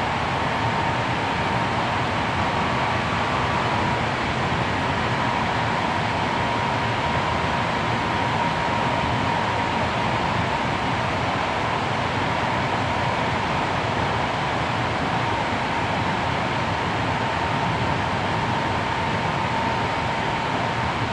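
Hankyu 7300 series electric train running at speed, heard from inside the carriage with the recorder on the floor: a steady rumble of wheels and running gear with a constant high whine over it.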